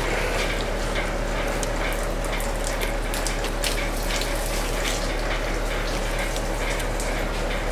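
Water running in a steady rushing stream, with scattered small crackles and clicks over it and a low hum underneath.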